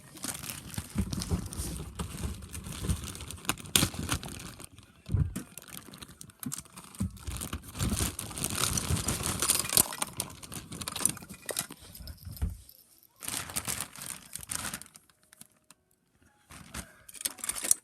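Toys being rummaged through and handled: irregular crinkling, rustling and small clattering knocks, pausing briefly near the end.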